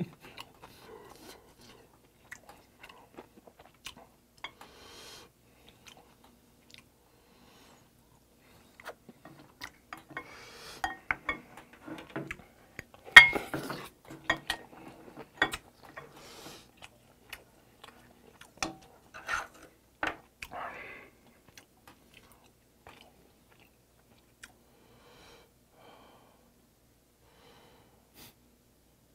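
Close-miked eating sounds: a man chewing mouthfuls of mustard-leaf kimchi stew and rice, with short noisy bursts and sharp clicks of a spoon and chopsticks on the bowls. The eating is busiest in the middle, loudest about thirteen seconds in, and thins out over the last several seconds.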